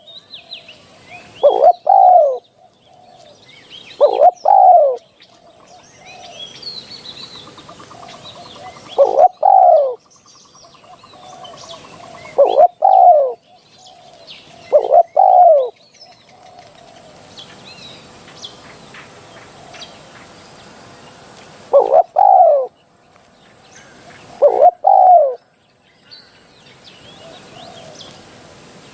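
Spotted dove cooing its territorial call, used as a decoy call to lure wild doves: seven loud phrases, each a short coo followed by a longer falling coo, spaced a few seconds apart, with long gaps after about sixteen seconds and near the end. Faint chirps of small birds sound in between.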